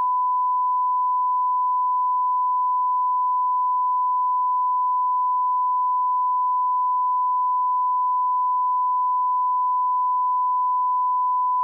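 Steady 1 kHz sine-wave line-up tone at the −18 dB reference level, used for checking audio levels. One unchanging pitch that cuts off abruptly at the very end.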